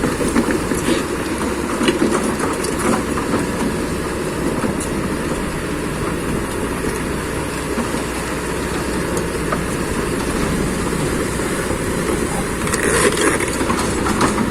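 Heavy earthmoving machine running steadily, with irregular clanking and rattling over the engine noise, and a short louder hiss near the end.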